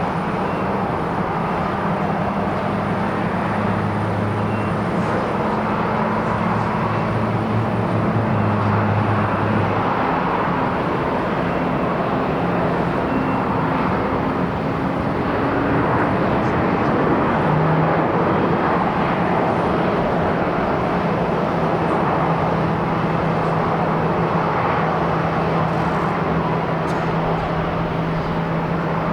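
Boeing 737-800 jet airliner with CFM56 engines coming in to land, a loud steady rush of jet noise with low droning tones that shift in pitch a couple of times.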